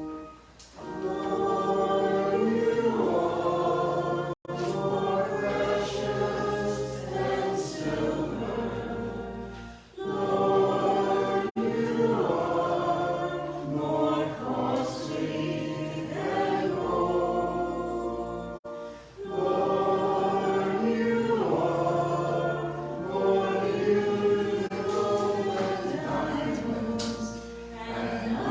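A choir singing a sacred anthem in long phrases, with brief breaks between phrases about ten and nineteen seconds in.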